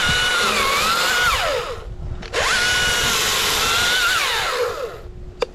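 Echo two-stroke chainsaw revved up twice, each burst about two seconds long. The engine pitch climbs fast, sags and recovers as the chain bites, then drops back to idle.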